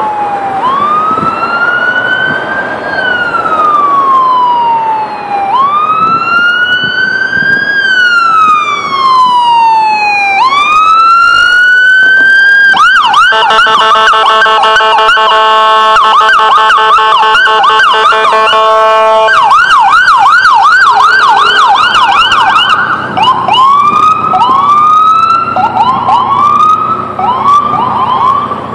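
Sirens of a fire engine and an ambulance responding. First comes a slow wail, rising and falling about every five seconds. About twelve seconds in it switches to a fast yelp over a long steady horn blast, and after that to rapid short rising whoops.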